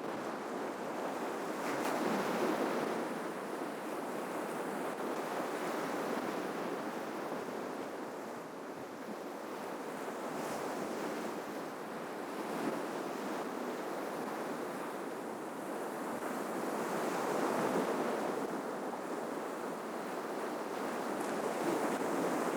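Sea waves breaking and washing up on the shore, a steady rushing hiss that swells as each wave comes in, about four times.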